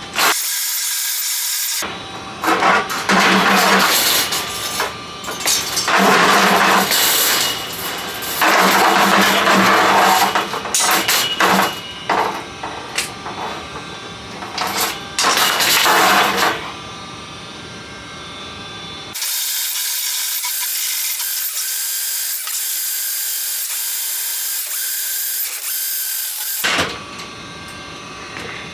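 Electric drain-cleaning machine running, driving its cable down a clogged main sewer line, in uneven surges. A long steady hiss takes over in the second half.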